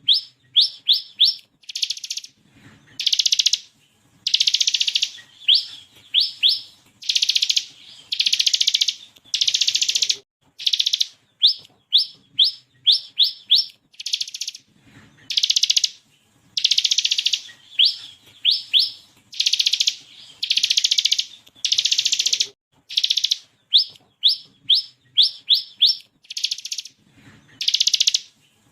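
Ciblek kristal (bar-winged prinia) singing hard. Quick runs of three to five sharp upward-flicking whistles alternate with rapid buzzing trills, a few seconds apart over and over. These are the 'tembakan' shots and 'ngebren' machine-gun rattles of a bird in full song.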